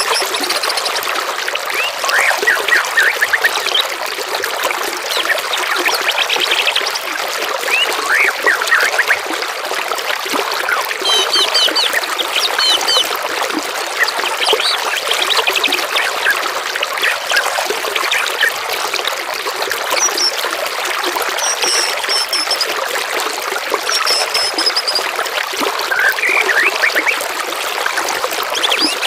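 Songbirds singing, with many short chirps and trills and some high whistled notes in the second half, over a steady babble of running water.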